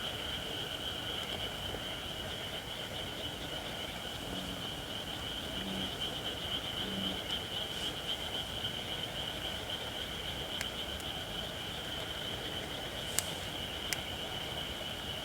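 Wood fire of not-yet-seasoned white oak burning, with two sharp crackling pops near the end, over a steady high insect chorus. Three short, low bullfrog croaks come about a third of the way in.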